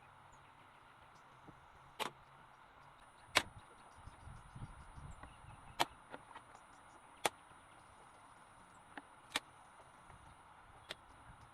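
Half a dozen sharp knocks or clacks, irregularly spaced a second or two apart, over a steady faint hiss, with a brief low rumble of handling in the middle.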